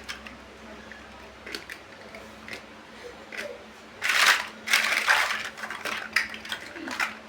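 Plastic building bricks being handled and pressed together: scattered sharp clicks and taps, with two louder rustling bursts of pieces being moved about a little after four and five seconds in.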